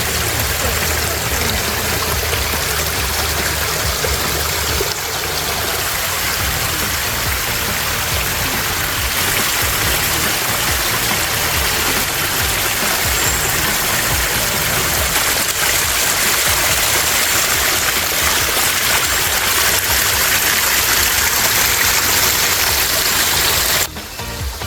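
Small woodland waterfall running at a low flow: a steady rush of falling and splashing water.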